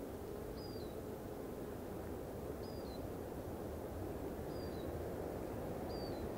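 A small bird calling four times, each a short high note that steps down in pitch, over a steady low background rush of the open forest.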